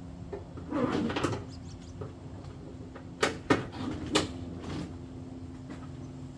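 Clatter and several sharp clicks of tent straps and their buckles and hooks being handled and fastened to a pickup truck bed, over a steady low hum.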